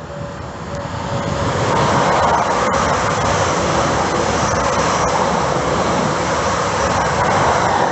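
A main-line train passing at speed close by: a steady rushing roar that builds over the first two seconds, holds, then cuts off suddenly.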